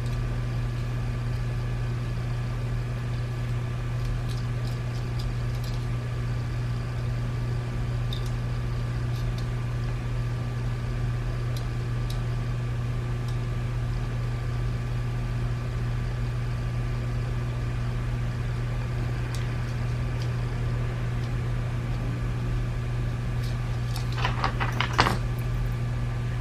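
Steady low electrical or fan hum, with a few faint scattered clicks, then a short burst of clicking and rattling near the end, like small plastic parts being handled.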